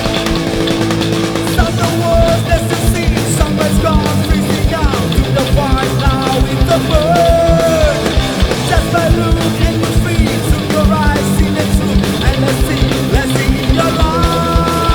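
Heavy rock song: distorted electric guitars and fast, steady drumming, with a bending lead melody line above them.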